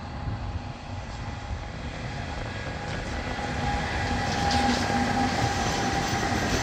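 Siemens Vectron class 193 electric locomotive hauling a container freight train as it approaches and passes close by, growing steadily louder. A steady whine rises over the low rumble of the wheels on the rails from about four seconds in.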